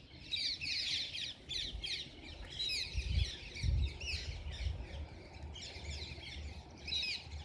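Small birds chirping: many short, quick calls overlapping without pause. Underneath runs a low rumble, with two dull thumps about three seconds in.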